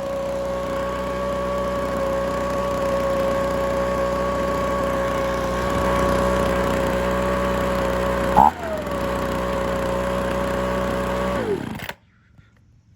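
Handheld two-stroke leaf blower engine running steadily at speed, with a brief blip up in pitch about eight and a half seconds in. Near the end it is switched off and winds down quickly to a stop.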